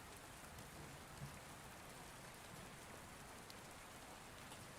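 Faint, steady rain ambience: an even hiss of falling rain with light patter.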